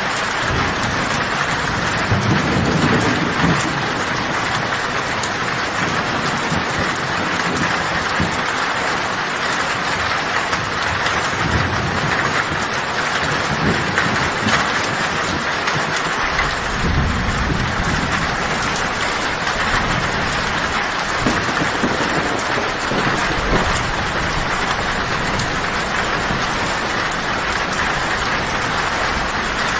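Heavy rain falling steadily on a tin roof, with low thunder rumbling about two seconds in and again for several seconds from about halfway through.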